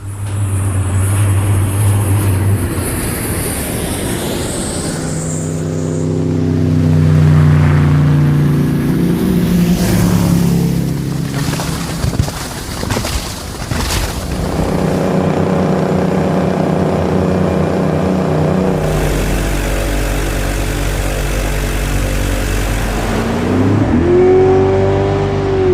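A run of small-boat sound effects: motorboat engines running, idling and revving, cutting from one recording to the next every few seconds. A rising engine tone comes near the end.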